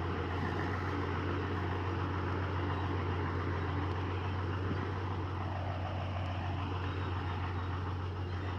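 Heavy diesel engine of earthmoving equipment running steadily, a constant low drone with a noisy spread of engine and machinery sound above it.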